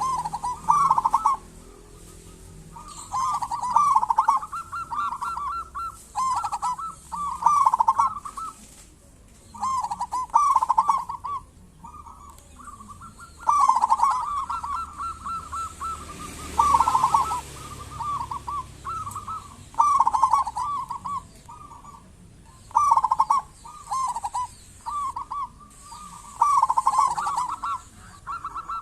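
Zebra dove (perkutut) singing its cooing song over and over, short trilled phrases with brief pauses between them.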